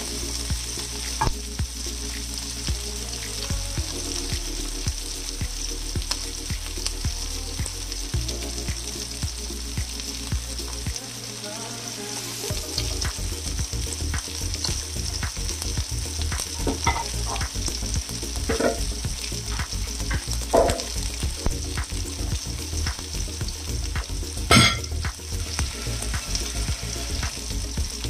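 Vegetarian pork slices and asparagus sizzling in oil in a nonstick wok, a steady hiss with scattered pops, the loudest near the end.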